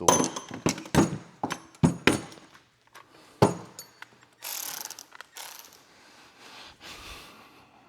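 Handling noise in a garage workshop: a quick run of sharp metallic clicks and knocks, then several longer scraping or rustling sounds.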